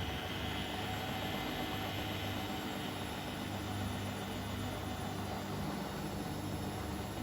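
Bosch Maxx WFL 248Y washing machine running with a steady motor whirr; a high whine rises over the first second, then holds steady.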